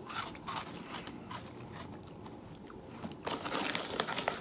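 A person chewing a mouthful of Goldfish Crisps, thin, light baked cracker chips, with sharp crunches in the first half-second and a denser run of crunches from about three seconds in.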